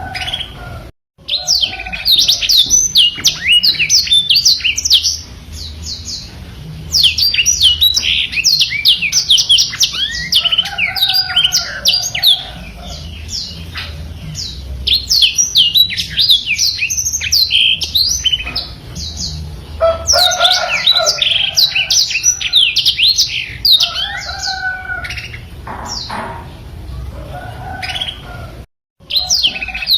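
Blackthroat (black-throated canary) singing a long, fast, twittering song of quick sweeping notes, in loud runs of several seconds with short lulls between them. The sound cuts out briefly about a second in and again near the end.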